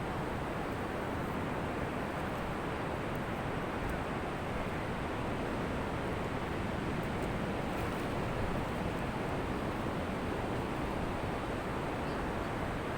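Ocean surf washing on a beach: a steady, even rush of water with no single breaking wave standing out.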